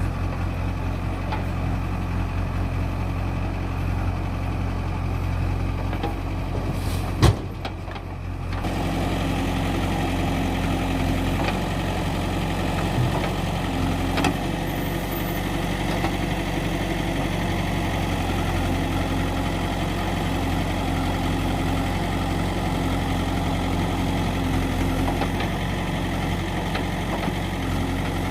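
Heavy diesel engine of the earth-moving machinery running steadily. About seven seconds in there is a single sharp knock, and the engine sound briefly drops before picking up again.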